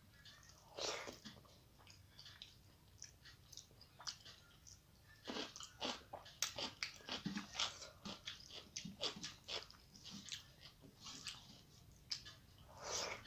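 A person chewing mouthfuls of rice and curry with many short, wet mouth smacks, thickest in the middle of the stretch, along with fingers mixing rice on a metal plate.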